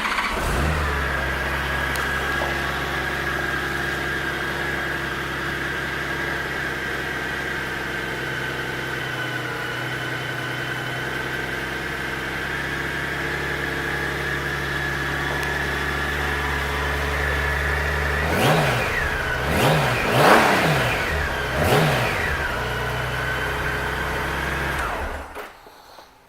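A 2005 Honda GL1800 Gold Wing's flat-six engine catches and settles into a steady idle. It is blipped three times, each rev rising and falling, about 18 to 22 seconds in, then idles again and shuts off near the end.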